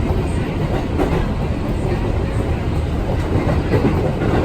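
Jakarta KRL commuter electric train running on the rails: a steady, loud low rumble of wheels and carriages.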